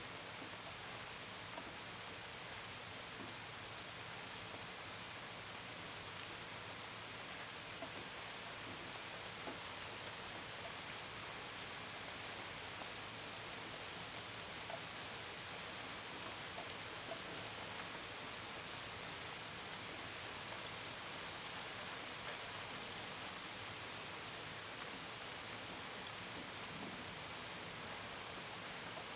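Steady gentle rain, with small drops pattering and ticking, and crickets chirping in a constant high pulsing trill.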